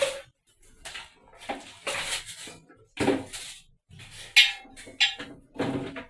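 Irregular clinking and clattering of hard items being handled and knocked together, with the sharpest clink about four and a half seconds in.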